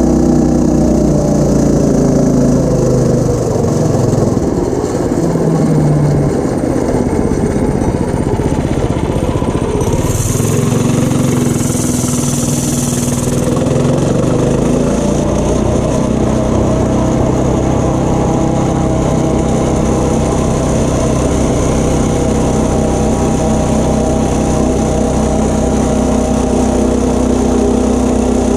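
Stock Tillotson 212 single-cylinder engine on a mini bike running hard under load. Its pitch drops over the first few seconds, dips about ten seconds in, then climbs and holds steady at high revs. A burst of hiss comes about ten seconds in and lasts some three seconds.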